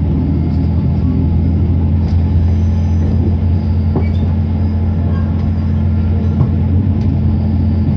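Inside a Class 166 diesel multiple unit under way: a steady low drone from the underfloor diesel engine and the wheels on the rails, with a faint click now and then.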